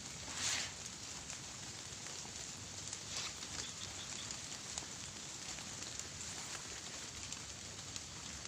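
Steady hiss of light rain, with two brief whooshes, about half a second in and about three seconds in.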